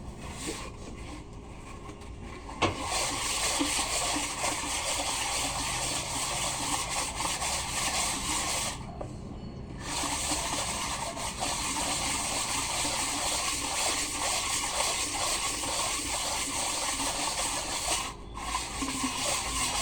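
Aerosol spray can hissing onto an engine cylinder head, with a white crack-check developer being sprayed on. It starts a few seconds in and runs in long bursts, with a short pause about halfway and another near the end.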